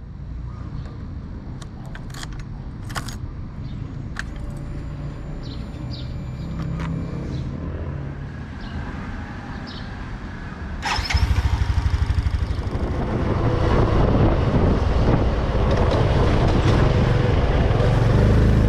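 A few sharp clicks and knocks over a low rumble, then the Yamaha PG-1's small single-cylinder engine starts about two-thirds of the way through. It ticks over with an even beat, then runs on louder with a rush of noise.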